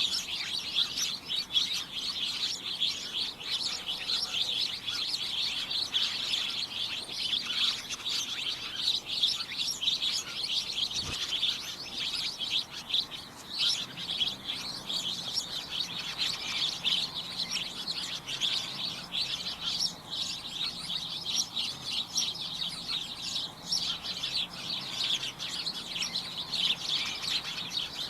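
A flock of birds chirping away in a dense, cacophonous chatter of short, high chirps that overlap without pause.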